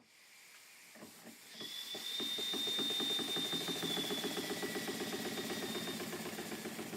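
Old single-cylinder toy steam engine, which the owner believes is a Dr. Oskar Schneider, running on compressed air. Air hisses as the supply opens; about a second in the engine starts turning and speeds up to a fast, even beat of exhaust chuffs through its small silencer. A thin high whistle sounds for a few seconds in the middle, and air leaks past the D valve, which the owner calls blow-by.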